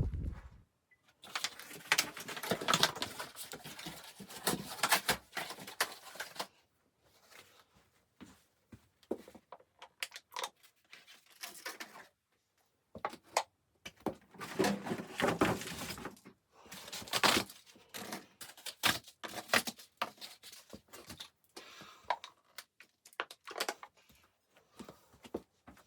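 Irregular rustling, clicking and tapping of things being handled, in bursts with short pauses between, in a small enclosed room.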